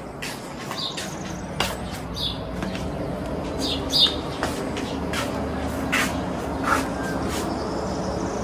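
Birds chirping in short calls, with scattered sharp clicks over steady low background noise.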